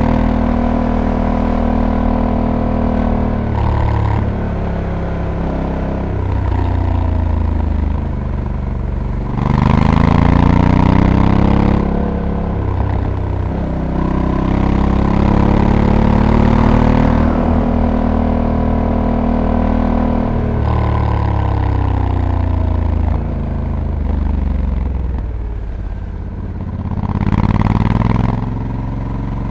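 Honda Africa Twin DCT's 1084 cc parallel-twin engine under way, its note rising under throttle and falling off again several times. The engine is loudest about ten seconds in and again near the end.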